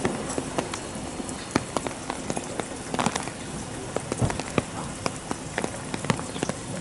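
Steady rain: a soft hiss with irregular sharp ticks of raindrops striking close by.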